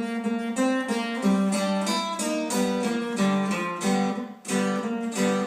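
Guitar playing a run of chords and notes between spoken lines, with a short break about four and a half seconds in.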